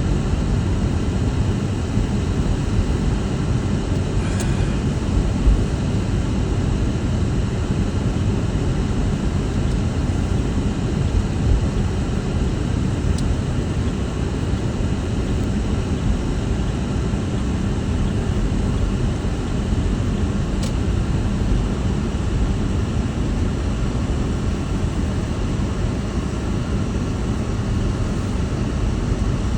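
Strong blizzard wind buffeting the microphone: a steady, heavy low rumble of rushing air with no let-up, broken only by a few faint ticks.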